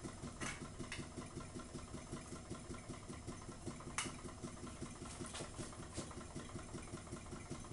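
Free-piston Ringbom Stirling engine running steadily under load with a fast, even pumping noise, its flywheel turning a friction-driven stepper-motor generator; it holds its speed on the turned-down wick flame. A few light clicks sound over it.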